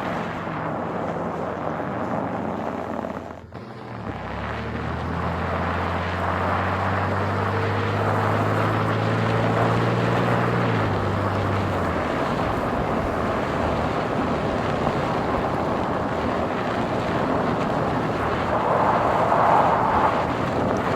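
A car driving, with a steady wash of road and wind noise. A brief dip in the noise comes about three and a half seconds in. After it a steady low engine drone joins, then fades out about halfway through.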